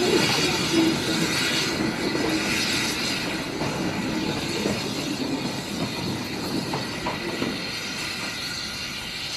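Small steam train running along the rails, its wheel and rail noise slowly fading as it moves away.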